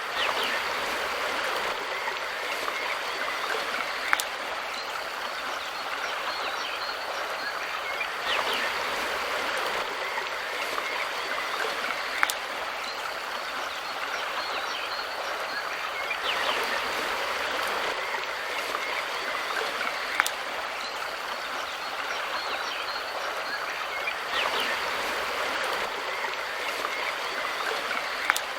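Mountain river water rushing and burbling steadily, swelling a little and giving a short sharp click about every eight seconds, a pattern that repeats like a loop.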